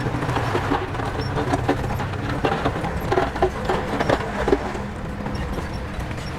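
Heavy construction machinery's diesel engine running steadily, with a run of irregular clattering and knocks from about half a second to four and a half seconds in.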